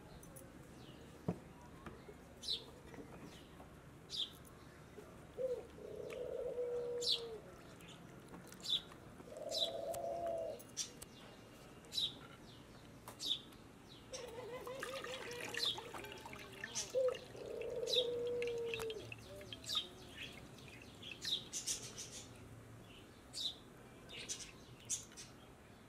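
Birds calling: short, sharp high chirps repeating about once a second, with four longer, lower calls in between, each lasting a second or two.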